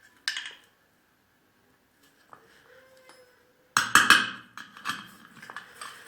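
Tools and metal engine parts knocking and clattering on a work surface during small-engine disassembly: one sharp knock at the start, a loud burst of knocks about four seconds in, then lighter scattered clicks.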